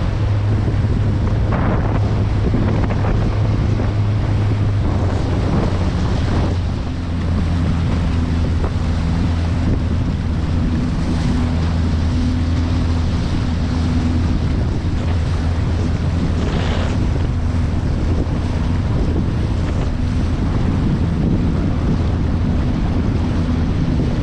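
Boat motor running steadily under heavy wind buffeting on the microphone, with the hull smacking through choppy waves a few times. The engine note drops to a lower pitch about seven seconds in.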